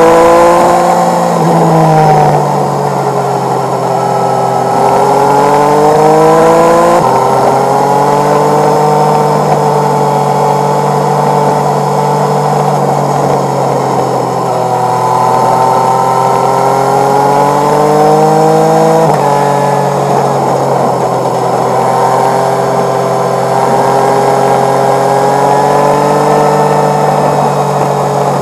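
Motorcycle engine running under way, sped up to double speed, its pitch rising and falling with the throttle. The pitch drops suddenly twice, about seven seconds in and again about two-thirds through.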